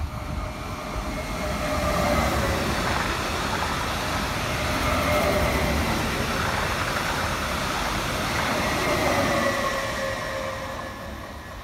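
Electric multiple-unit passenger train running through the station past the platform. The rumble of wheels on rail and motor whine build up over the first two seconds and hold steady. Toward the end the sound fades, with the whining tones dropping in pitch as the train moves away.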